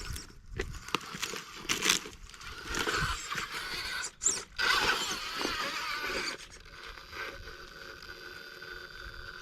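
RC rock crawler working over rock, its tyres scraping and grinding in uneven bursts. After about six seconds it settles to a quieter, steady electric motor whine.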